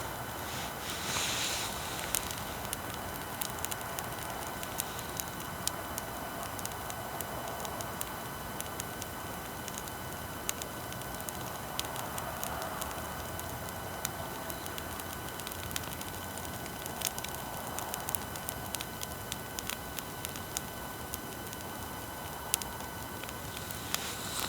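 Wood bonfire crackling, with sharp irregular pops and snaps throughout, over a steady hiss and faint whine of electrical noise from the recording equipment.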